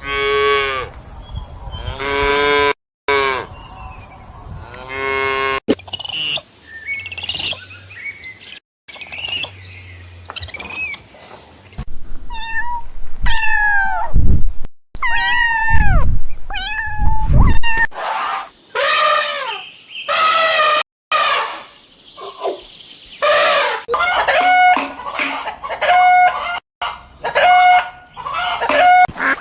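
A run of different farm-animal calls, cut one after another with abrupt breaks between them, among them cattle mooing and poultry calls.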